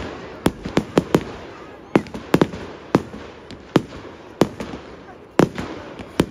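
Fireworks going off: a string of sharp, irregular bangs and pops, sometimes two or three close together and sometimes a second or more apart, over a steady hiss of crackle and echo.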